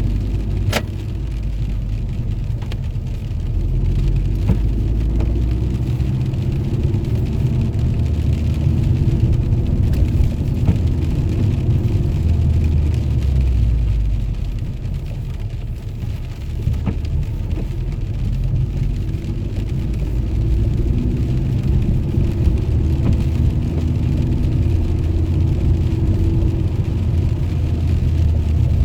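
Abarth Punto Evo's 1.4-litre turbocharged four-cylinder engine running with a low rumble, its pitch wandering as the revs shift. There is a sharp click a little under a second in.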